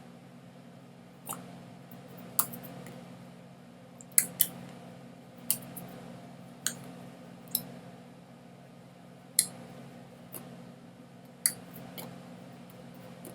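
A series of about ten sharp clicks at irregular intervals over a steady low hum.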